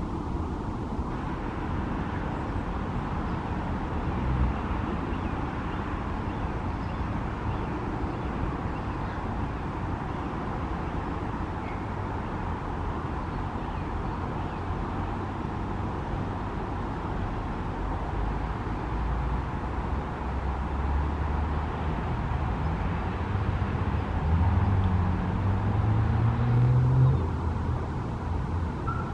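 Steady road traffic noise, with a motor vehicle's engine growing louder and rising in pitch about 24 to 27 seconds in.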